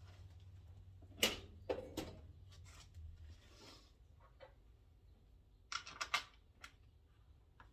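Scattered sharp clicks and light taps of hard plastic and metal parts being handled: one group of three about a second in, and another group of about four near six seconds in. A faint low hum sits underneath for the first three seconds.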